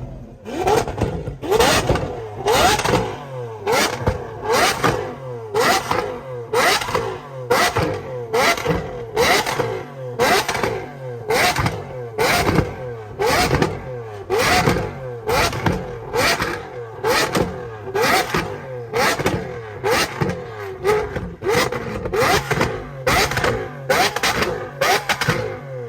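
Lamborghini Aventador SVJ's naturally aspirated V12 being revved over and over in quick, sharp blips, a little more than once a second, each a fast rise and fall in engine pitch.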